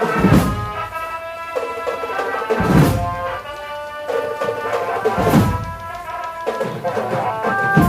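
Marching drum band playing a held, sustained melody, with three heavy drum-and-cymbal hits about two and a half seconds apart.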